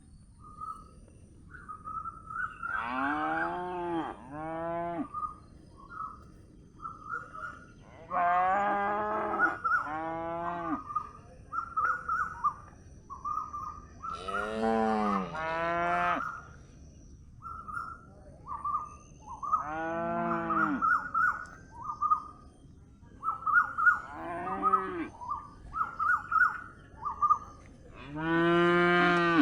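A calf mooing repeatedly: about nine short calls, many in quick pairs, coming every five to six seconds. Small birds chirp in the gaps between the calls.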